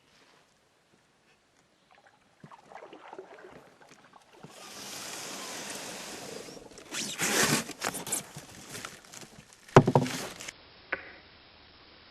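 Canoe paddling: paddle strokes splashing in the water, over a steady wash, with a sharp knock about ten seconds in.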